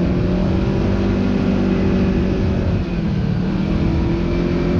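Kawasaki KRX side-by-side engine running steadily while under way, over a rush of wind and tyre noise. The engine note eases briefly about three seconds in, then holds again.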